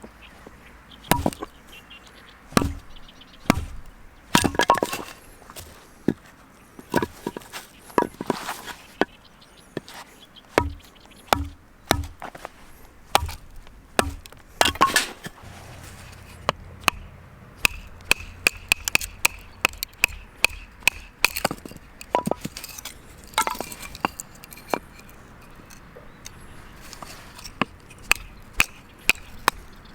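A blade chopping against wood: dozens of sharp, irregular strikes in short clusters with brief pauses between them.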